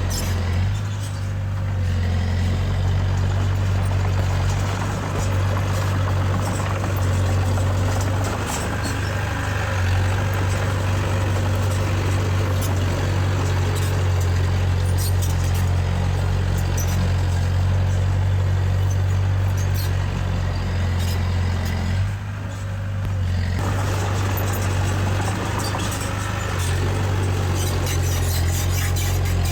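Diesel engine of heavy earthmoving machinery, a bulldozer or dump truck, running steadily with a deep low hum. The engine note dips and changes briefly about 22 seconds in, then settles again.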